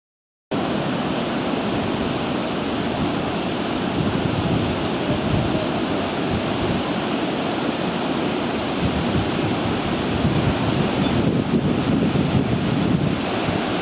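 Steady rushing noise, wind-like, that cuts in abruptly about half a second in and runs on evenly, with a gusty, fluctuating low end.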